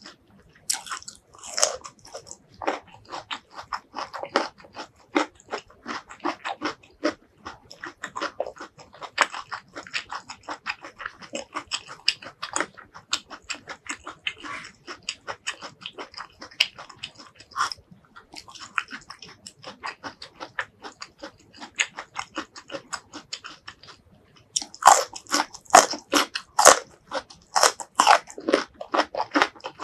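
Close-miked crunching and chewing of spicy stir-fried vegetables: a baby corn is bitten and chewed in a steady run of crisp crackles. After a short pause near the end, louder crunching bites into an asparagus spear.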